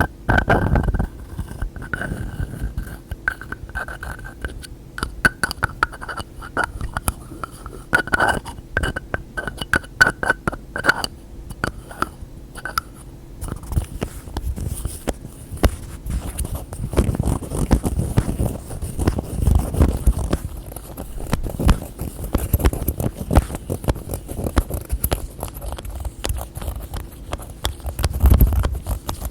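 Close-miked ASMR tapping on containers and their lids: quick flurries of taps with a faint ringing tone under them for the first half, then lower rubbing and scraping with scattered clicks.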